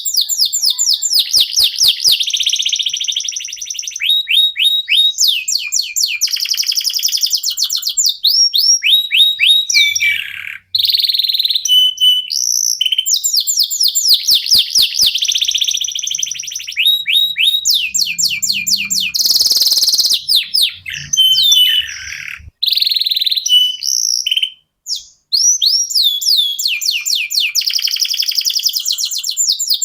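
Domestic canary song: long, fast trills of quickly repeated sweeping notes, running almost without pause, with short breaks about 11 seconds in and again about 24 seconds in.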